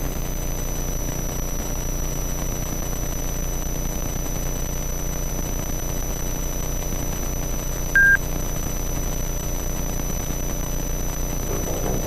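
Light aircraft's piston engine at full takeoff power, a steady drone heard in the cockpit during the takeoff roll and initial climb, with one short electronic beep about eight seconds in.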